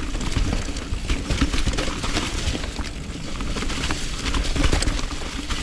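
Mountain bike being ridden down a rough trail, heard from a body- or bike-mounted action camera: tyres rolling over dirt and rock with a constant clatter of knocks and rattles from the bike, over a low wind rumble.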